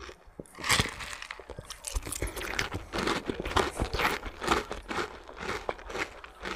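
Close-up chewing of a mouthful of green Señorita mango with bagoong: a dense run of wet crunches and crackles starting about half a second in.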